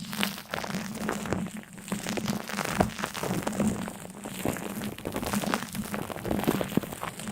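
Continuous crinkling and crackling, many small irregular clicks in quick succession, over a steady low hum.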